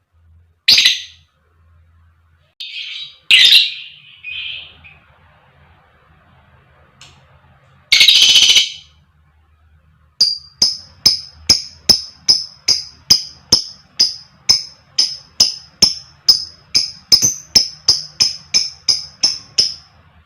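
Lovebird calling: a few loud shrill shrieks, then from about halfway a long, evenly spaced run of sharp high notes, about two to three a second, for nearly ten seconds. This is the long chattering series that keepers call 'ngekek panjang'.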